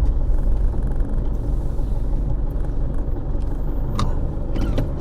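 Steady low rumble of a car driving, heard from inside the cabin, with a few faint clicks about four seconds in.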